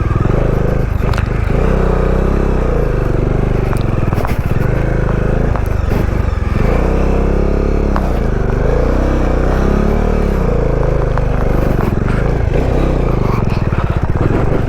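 Bajaj Dominar 400's single-cylinder engine running on the move, its pitch rising and falling repeatedly as the throttle is worked, with a few short knocks.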